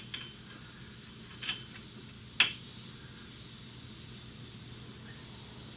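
A few light metal clinks from tools or parts being handled, the sharpest about two and a half seconds in, over a steady background hiss.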